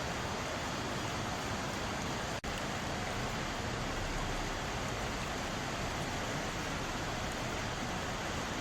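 Mountain-valley stream water flowing steadily over rocks, an even rushing noise, with a split-second dropout about two and a half seconds in.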